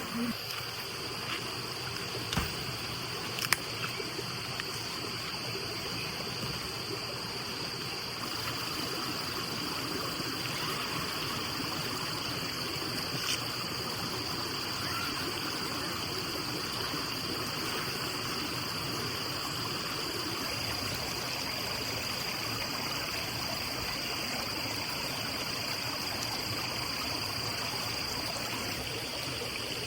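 Small stream flowing steadily, an even rush of water with a steady thin high tone above it. A few sharp clicks come in the first few seconds.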